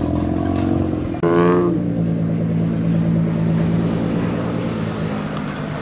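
A car engine revs sharply about a second in, then settles into a steady drone that slowly fades as the car drives off.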